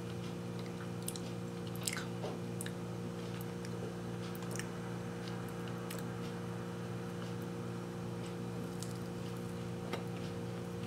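Person chewing a soft no-bake chocolate oat ball (chokladboll): a few faint, scattered mouth clicks over a steady low hum.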